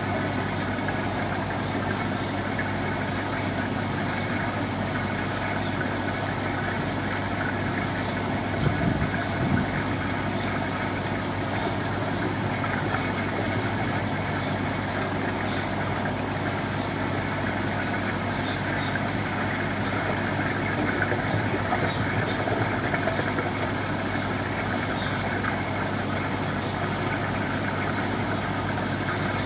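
An engine running steadily at a constant idle-like speed, with a low hum. A few brief louder bumps come about a third of the way in and again about three-quarters of the way through.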